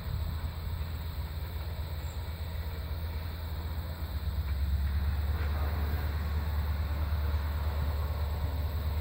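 Diesel-hauled passenger train running past in the distance: a steady low engine and wheel rumble that grows louder about four seconds in.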